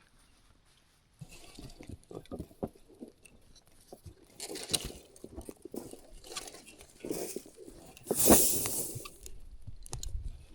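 Scattered scuffs, crunches and clicks of hands-on fence work, with a louder rough scraping rustle about eight seconds in.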